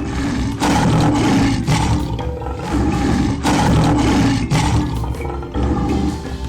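Lion roaring in three long, rough roars over background music.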